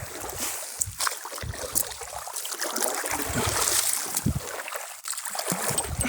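Water splashing and trickling around a small boat, with scattered knocks, as it is paddled along.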